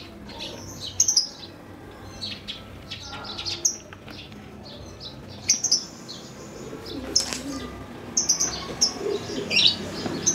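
Birds chirping in many short high notes, with several brief, sharp bursts of pigeons' wings flapping.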